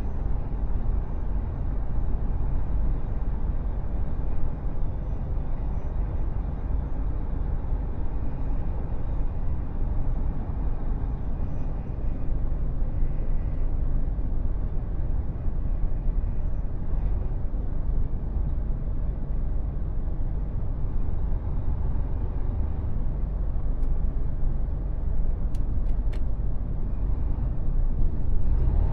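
Mercedes Actros truck on the move: a steady low diesel engine and road rumble that holds even throughout, with a few faint clicks near the end.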